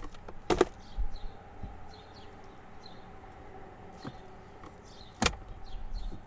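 Plastic glove box door of a 2007 Honda Accord knocking twice, about four and a half seconds apart, as it is opened and shut on its repaired latch, which now works with no lock set fitted. Faint bird chirps can be heard behind it.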